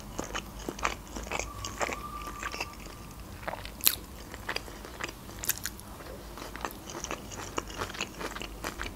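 Close-miked chewing of sushi: wet mouth clicks and soft crunches, with one sharper click about four seconds in.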